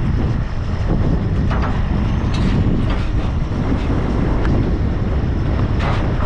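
Gale-force wind buffeting the camera microphone: a loud, continuous, rumbling roar of wind noise.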